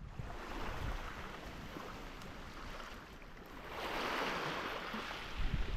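Water lapping and washing around a kayak, with wind on the microphone; the wash swells louder about four seconds in, and the wind buffets the microphone near the end.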